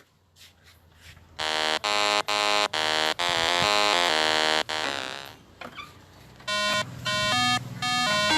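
Electronic sound effects: a horn-like tone sounds in several short blasts and then one longer one. A few seconds later comes a beeping electronic melody of short notes at changing pitches.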